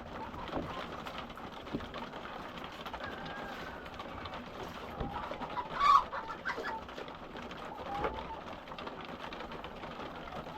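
Flock of laying hens clucking and calling softly as they feed, many birds overlapping, with one louder, sharper sound about six seconds in.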